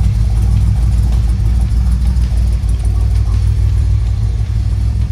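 Cammed DeLorean DMC-12's PRV V6 engine idling steadily with a choppy, uneven pulse.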